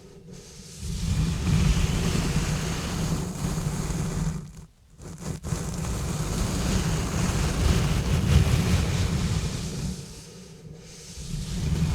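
Exfoliating gloves rubbing and scratching directly on a bare microphone: dense scrubbing noise with a heavy low rumble. It breaks off briefly near the start, just under five seconds in, and again around ten seconds.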